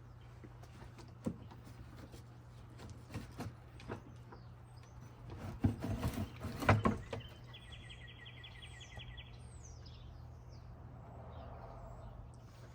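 Scattered knocks and clunks of parts being handled and pulled off an ATV, the loudest cluster about six to seven seconds in. Birds chirp in the second half over a steady low hum.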